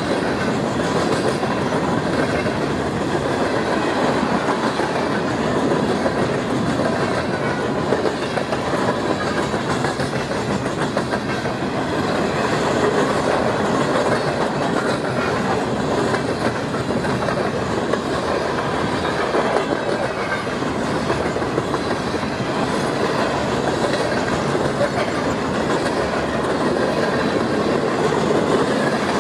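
A fast train's cars rolling past, a steady loud rush of wheel-on-rail noise with clicking from the wheels.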